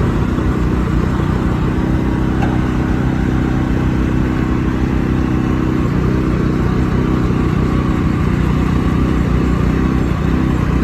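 An engine running steadily close by, its pitch shifting slightly about six seconds in.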